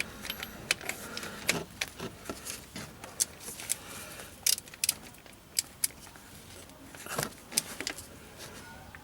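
Irregular metallic clicks and clinks of a socket wrench on bolts as the starter motor's bracket is tightened.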